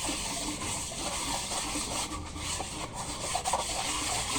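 Cylinder head being resurfaced by hand, its face rubbed against abrasive in a continuous scraping rub.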